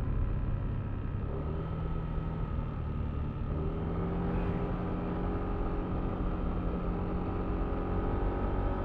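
Yamaha Aerox V3 scooter's single-cylinder engine running at a fairly steady speed under way, with low road and wind rumble.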